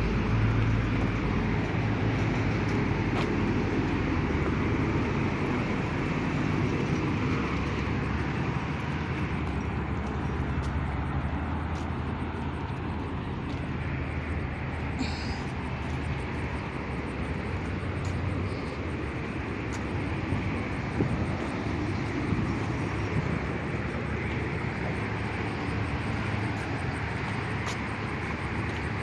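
Steady low drone of distant engine noise under an outdoor hiss, with a hum that drifts a little in strength.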